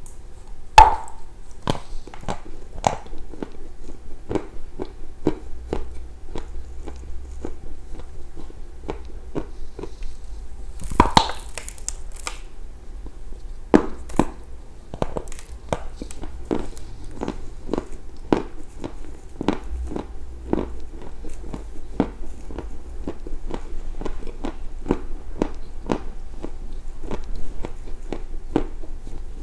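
Close-miked biting and chewing of a dry block of edible clay: sharp snapping bites, the loudest about a second in and another about eleven seconds in, then steady crunching chews.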